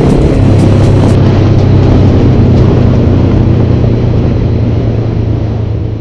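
Honda CB500X motorcycle engine running steadily while riding, a constant low drone under road noise; the sound fades away near the end.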